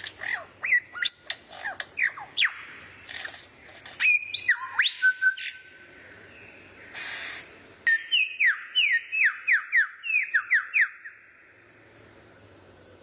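A songbird singing a varied phrase of sharp, quickly sweeping whistled notes, then a fast run of falling notes before it pauses near the end.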